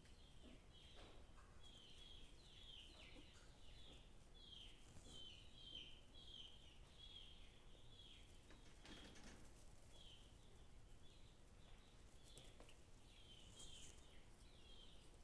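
Faint, high bird-like chirping, short downward-sliding chirps about two or three a second, with a brief soft rustle about nine seconds in.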